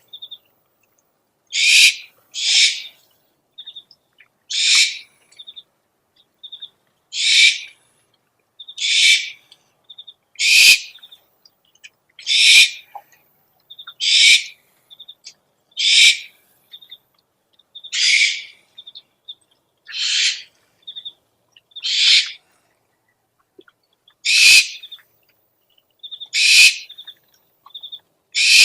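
Owl calls used as a lure sound: a harsh, raspy screech repeated about every two seconds, with short high chirps in between.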